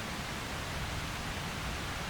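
Steady, even hiss of rain falling, with no distinct drops or thunder.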